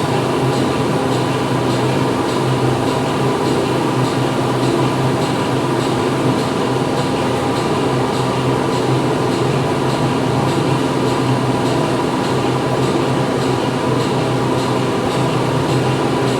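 Factory machinery running steadily: a dense, unbroken mechanical din with a low hum and a faint regular ticking.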